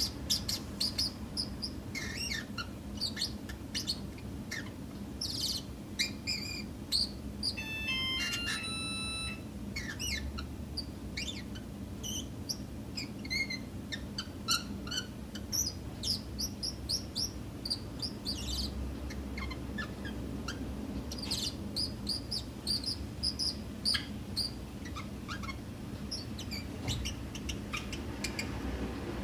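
Small pet birds chirping in many short, high tweets, scattered and off and on, over a steady low hum.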